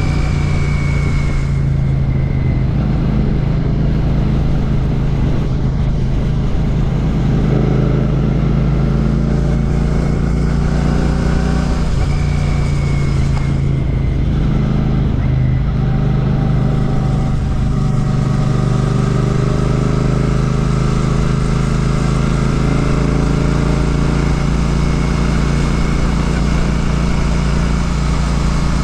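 Royal Enfield Classic 650's parallel-twin engine running through an aftermarket Ngage exhaust while riding at a steady pace. The exhaust note dips and changes pitch about halfway through and again a few seconds later, as with a throttle lift or gear change.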